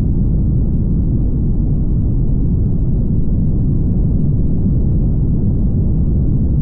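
Steady low rumble of road and wind noise from a car driving on the highway, even throughout with no distinct events.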